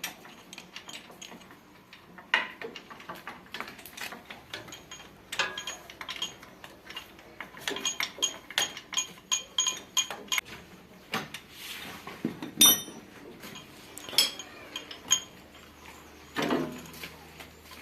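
Metal hand tools clinking and tapping against steel tractor parts during repair work. There is a quick run of repeated small clinks partway through, and a sharp ringing metal clank a little after the middle, which is the loudest sound.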